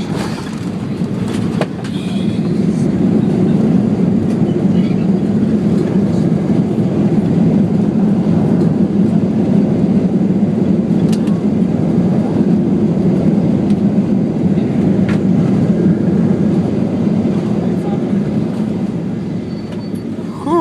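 Boeing 737-800 cabin noise: a loud, steady low rumble from the engines and rushing air. It swells about two seconds in and eases off over the last few seconds.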